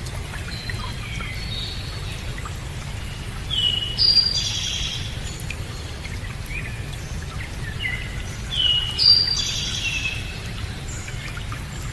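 A songbird sings a short phrase of several high whistled notes twice, about four and nine seconds in, with fainter chirps in between, over a steady low rushing noise.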